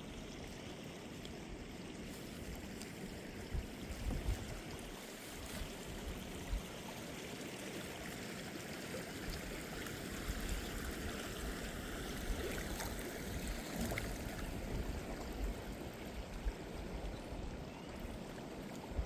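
Steady rush and trickle of moving water, as around a kayak on the water, with uneven low rumbling swells and a few small knocks.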